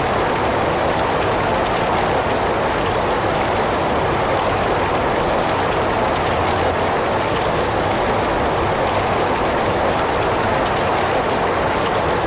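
Heavy rain falling steadily: a dense, even hiss of rain with no let-up.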